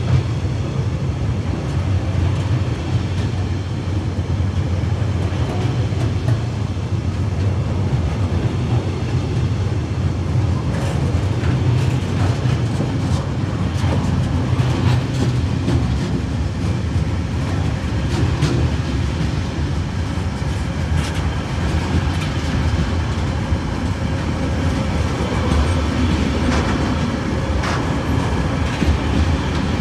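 Tasrail freight wagons loaded with logs and shipping containers rolling past close by: a steady rumble of steel wheels on rail, with scattered clicks and knocks as the wheels cross rail joints.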